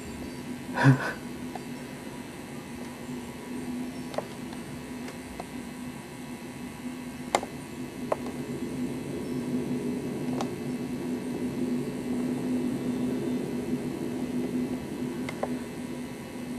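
A door shaking and knocking in gusty wind, over a steady low hum and a wind rush that swells and fades. A few sharp knocks and rattles are scattered through it, the loudest about a second in.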